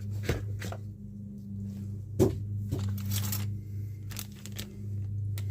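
A plastic bag of model kit parts being cut and torn open: a handful of sharp crackles and snaps, scattered through, over a steady low hum.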